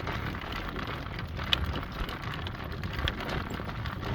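A horse-drawn cart moving along a caliche dirt road: a steady crunching of wheels and hooves, with two sharp clicks about one and a half and three seconds in.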